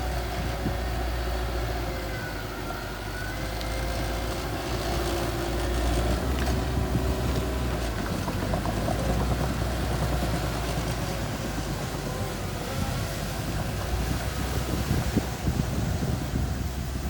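Mini bulldozer's engine running steadily with a constant low hum, no clear revving.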